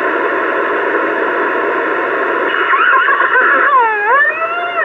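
CB radio receiving the other station's carrier: a steady, band-limited hiss, then from about two and a half seconds a wavering tone whose pitch swoops down and back up twice as the clarifier is turned both ways, a quick check of the retuned radio's frequency accuracy.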